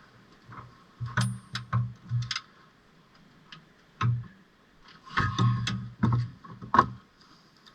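Metal knocks and clicks from hand tools working on car parts, in two clusters: a handful of sharp strikes about a second in, then another run about five seconds in.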